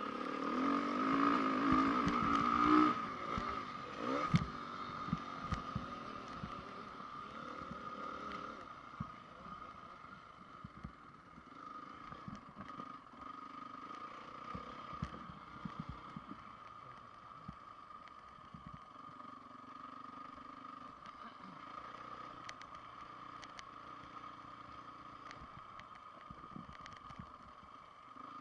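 A 2010 Honda CRF450 single-cylinder four-stroke motocross bike's engine revs hard for about the first three seconds, then runs much quieter with scattered knocks and rattles. A steady high whine runs underneath.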